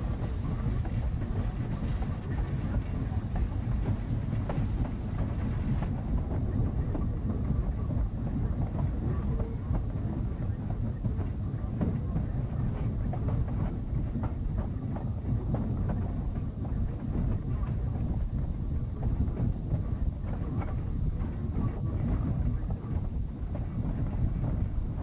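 Narrow-gauge train rolling along behind steam locomotive No. 15: a steady low rumble of wheels on the rails, with irregular clattering over the rail joints.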